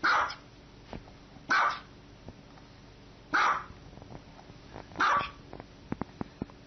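A small dog barking four times, one short bark about every second and a half.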